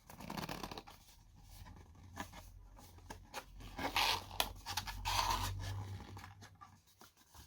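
Cardboard and plastic packaging being handled: irregular rustling and scraping with a few light clicks, loudest about four and five seconds in, over a faint low hum.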